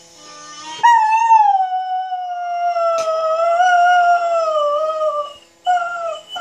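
Dog rooing: one long howl starting about a second in and sliding slowly down in pitch for over four seconds, then two short howls near the end.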